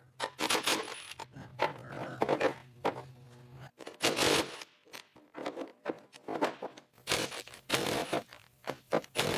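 Metal tools clinking and scraping against a rusted steel chassis bolt in irregular bursts as it is forced loose, with a low steady hum under the first few seconds.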